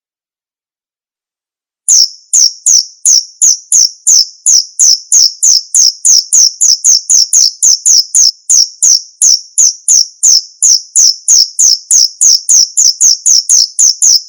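Male jangkrik bos cricket chirping: a steady, even run of short, high-pitched chirps, about three a second. The chirps start abruptly about two seconds in, after complete silence.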